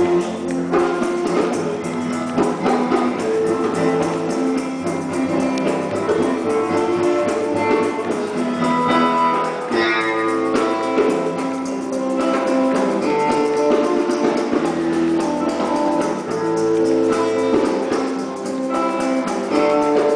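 Instrumental intro of a song: guitar over steady sustained chords and a bass line, with no singing yet.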